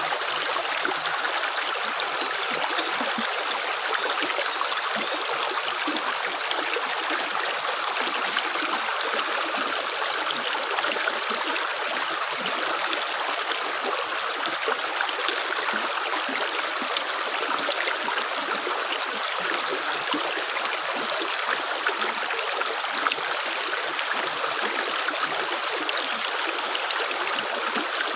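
Running water flowing steadily, as in a small stream, an even wash of sound with no pauses between drops.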